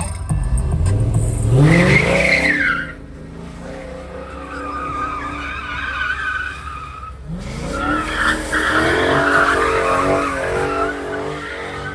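A car drifting: its engine revs up and the tyres squeal, twice, the second time starting about halfway through and lasting longer.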